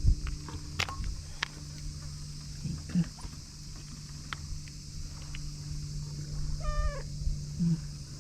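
A stray cat gives one short, high meow about two-thirds of the way in, its pitch dropping at the end. A steady low hum and a few light clicks run underneath.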